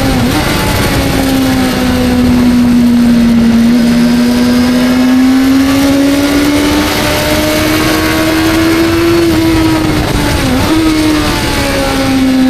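Suzuki GSX-R sportbike engine running hard at high revs. Its pitch slowly falls, climbs again and eases off, dipping sharply for a moment twice: just after the start and about ten and a half seconds in.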